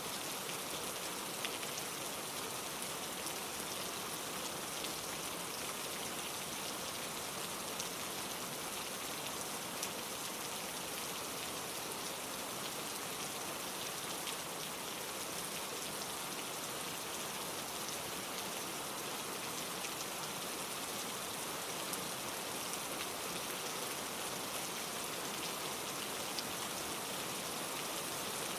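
Steady rain falling on leaves, an even hiss with scattered individual drops ticking.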